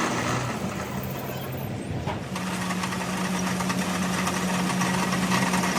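Workshop machine motor running with a steady hum over a mechanical wash. It falters about two seconds in, then settles back into a steady tone.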